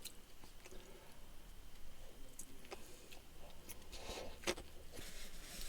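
A person quietly chewing a bite of burger, with a few small clicks and rustles of handling.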